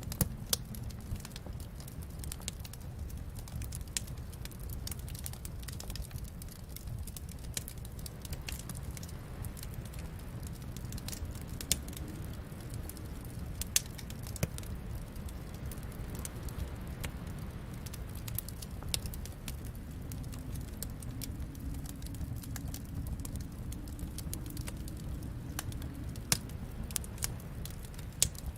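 Wood fire crackling in a fireplace: irregular sharp crackles and a few louder pops over a steady low rumble of the flames.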